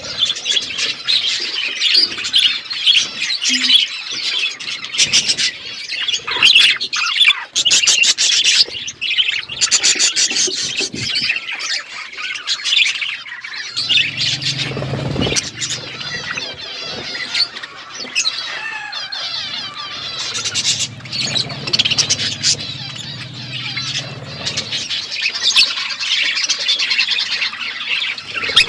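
Budgerigars chattering: a dense, unbroken run of chirps and squawks from several birds.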